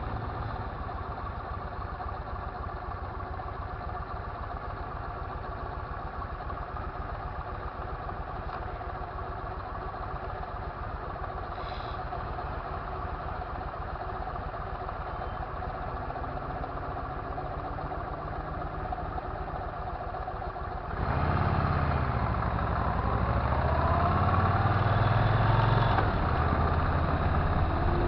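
Motorcycle engine running steadily at low revs, then revved about three-quarters of the way through, getting suddenly louder with its pitch rising and falling.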